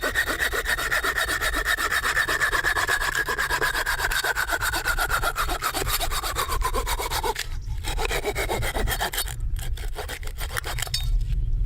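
Hand saw cutting through wood with quick, steady strokes. The ringing pitch of the cut falls slowly as it goes. The sawing stops briefly about two-thirds of the way through, then resumes and thins out near the end.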